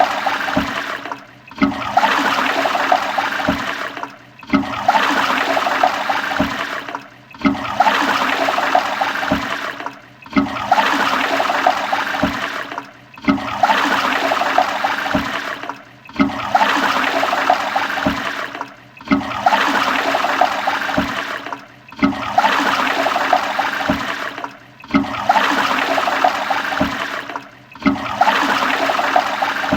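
Toilet flushing: rushing, gurgling water that breaks off briefly and starts again about every three seconds, the same short flush repeated over and over.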